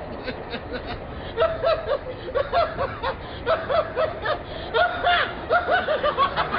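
A person snickering: a string of short, high-pitched giggles that starts about a second and a half in and runs on in quick bursts.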